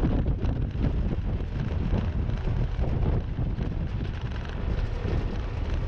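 Willys Jeep on the move, its engine running under a steady rumble of road noise, with wind buffeting the microphone.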